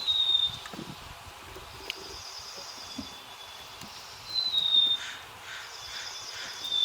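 Birds calling: a short, high call that drops in pitch comes three times, about two to four seconds apart, with buzzy, higher-pitched calls between them.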